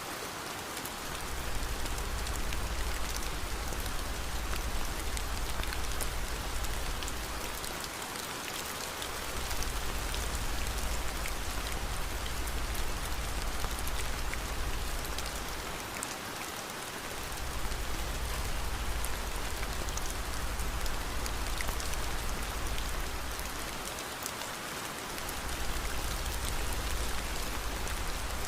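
Steady heavy rain with scattered sharp ticks of drops. Under it runs a low rumble that drops out briefly about every eight seconds.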